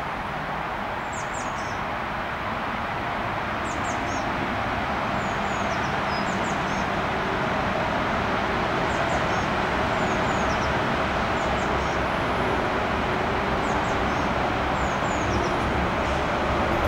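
A small songbird singing short, high, chirping phrases every couple of seconds over a steady distant rumble that slowly grows louder.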